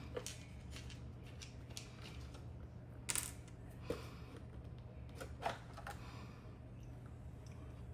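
A few light clicks and taps of a screwdriver and screws on the plastic parts of a dishwasher's control panel as the screws holding the circuit-board compartment are taken out, over a steady low hum.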